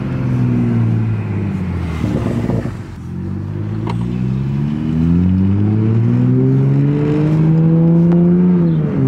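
Toyota Supra engine through its Tomei exhaust. The revs fall away for the first couple of seconds, with a sharp click about four seconds in. The engine then pulls up steadily through a gear for about four seconds, and the revs drop quickly near the end, as at an upshift.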